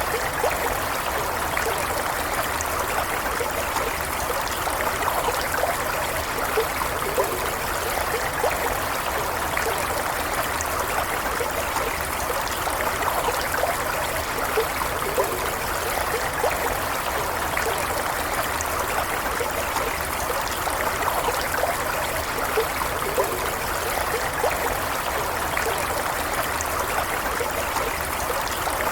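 Small stream flowing steadily over rocks, a continuous babble of running water with small trickles and splashes.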